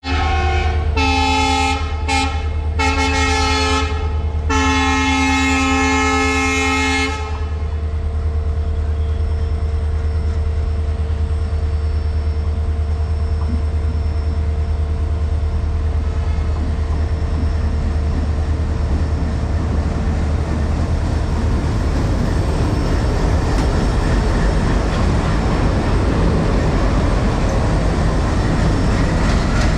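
Indian Railways locomotive horn sounding four blasts, two short then two longer, the last held about two and a half seconds. It is followed by the steady low rumble of the train, which grows louder toward the end.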